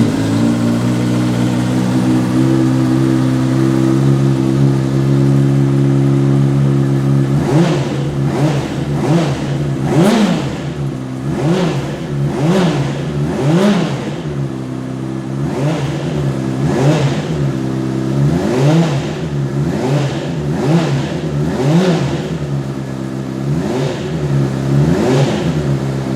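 2012 Honda CBR600RR's inline-four engine, freshly started, idling steadily. From about seven seconds in it is blipped with the throttle again and again, roughly once a second, its pitch rising and falling with each rev.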